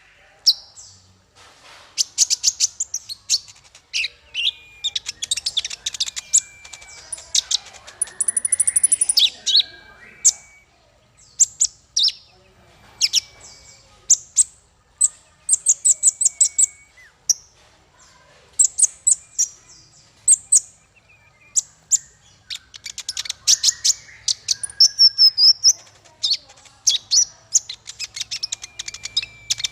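Small songbird singing: bursts of rapid, sharp, very high chirps and trills with short pauses between them, and now and then a short whistled note.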